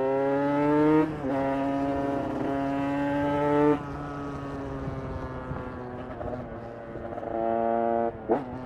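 KTM 150 EXC two-stroke single, carburetted and fitted with a ProCircuit header pipe, accelerating hard. Its pitch climbs, drops with an upshift about a second in, and climbs again. Near four seconds the throttle closes and the engine runs quieter with a slowly falling pitch, then comes back on the throttle near the end.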